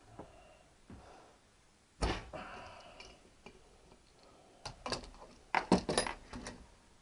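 Hand tools and small metal parts knocking and clinking on a workbench: one loud knock about two seconds in, then a quick run of sharp clicks and knocks near the end.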